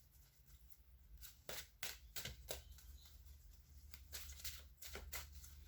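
Tarot cards being handled: a string of faint, irregular card taps and flicks, about a dozen over a few seconds.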